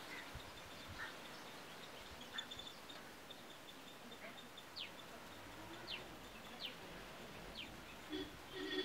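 Small birds chirping over a faint outdoor background: steady high twittering, with four quick downward-sweeping chirps about a second apart in the second half, and a louder, lower call near the end.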